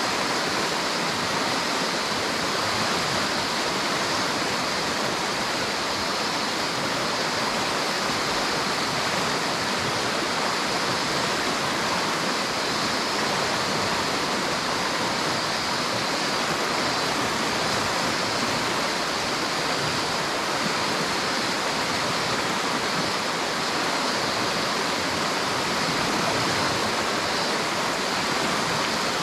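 River water rushing and flowing steadily, an even hiss with no breaks.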